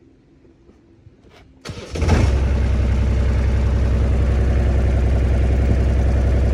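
JCB 8018 mini excavator's diesel engine starting with a brief crank nearly two seconds in, then running steadily at idle.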